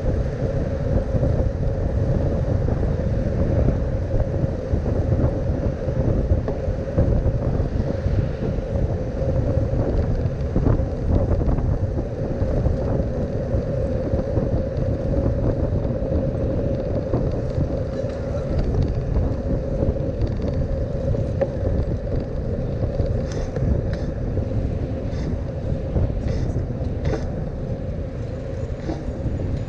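Road and wind noise of a bicycle ride in traffic: a steady low rumble with a constant hum. A run of short, sharp clicks comes in during the last few seconds.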